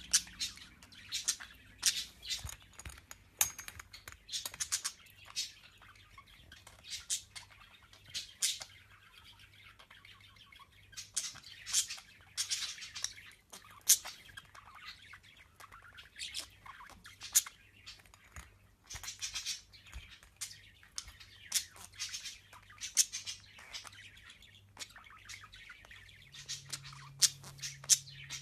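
Pet birds chirping and squawking: a long run of short, sharp high calls at irregular intervals, over a faint steady low hum.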